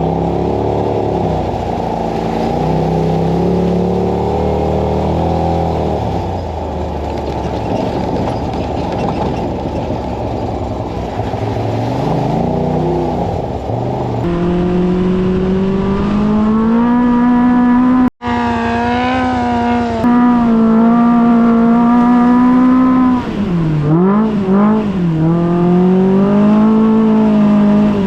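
Side-by-side UTV engine running under load and revving up and down as it is driven along the trail, the pitch rising and falling repeatedly. The sound cuts out for an instant about eighteen seconds in.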